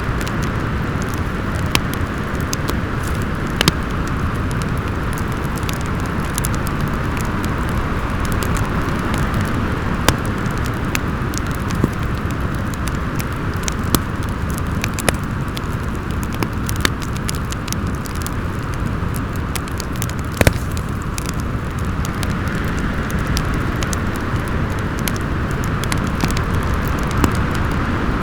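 Wind howling steadily over a wood fire crackling in a fireplace, with scattered sharp pops from the fire over the continuous rush of the storm.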